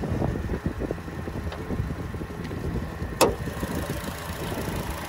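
Chevrolet Sonic's 1.4-litre turbocharged four-cylinder idling, with the light clatter of its direct injection. A single sharp click a little over three seconds in as the hood is unlatched and raised.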